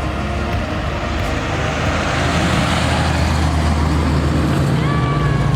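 A car engine running and getting steadily louder, its note stepping up near the end as it is revved or pulls away.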